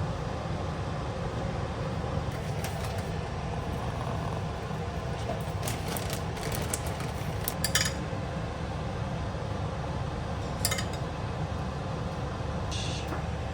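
Scattered light clinks and taps of cooking utensils and dishes, a cluster of them about halfway through, over a steady low background rumble.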